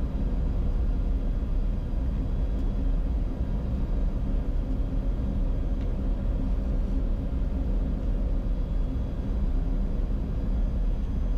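Steady cockpit noise of a Bombardier Challenger 605 on final approach with the gear down and flaps at 45: an even low rumble with a faint steady hum.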